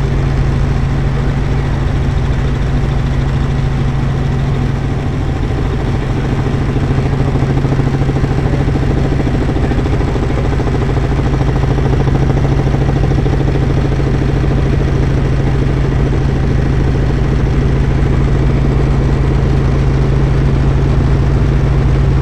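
Helicopter in flight heard from inside the cabin: a loud, steady drone of rotor and engine with a constant low hum.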